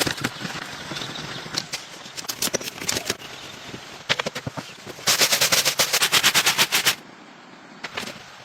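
A series of sharp clicks and knocks. About five seconds in comes a loud, fast, even run of about ten clicks a second that lasts about two seconds and stops suddenly.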